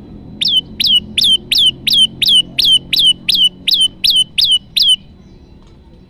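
Prenjak lumut calling on a lure recording: a run of thirteen sharp, identical notes, about three a second, each sweeping quickly down in pitch and ending on a short held note. The calls stop about a second before the end, leaving a low background hum.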